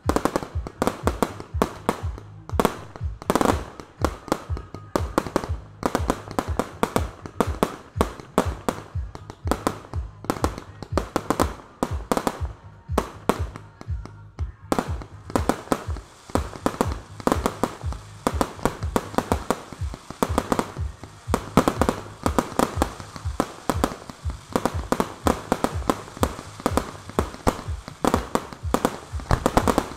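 Professional aerial fireworks display going off in a rapid, unbroken string of launch thumps and bursting reports from shells and multi-shot cakes, several a second, with music playing underneath.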